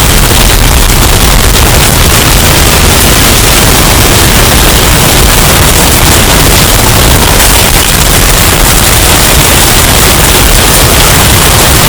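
Hurricane wind sound effect, bass-boosted and overdriven: a loud, steady, distorted wash of wind noise filling the whole range, heaviest in the bass.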